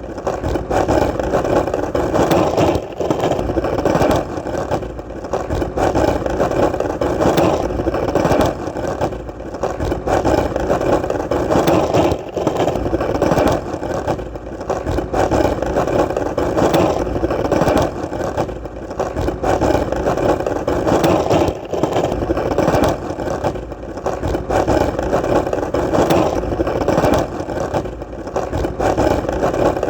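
Skateboard wheels rolling on hard ground: a steady rolling rumble with many small clicks and ticks from the surface, dipping briefly every couple of seconds.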